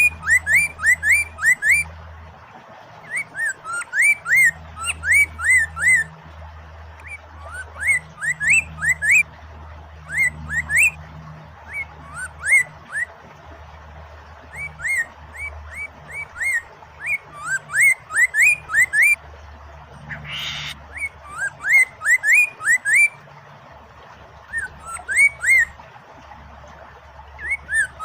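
Poksay Mandarin laughingthrush singing in phrases of quick, rising whistled notes, several notes to a phrase with short pauses between. A brief rushing noise breaks in about twenty seconds in.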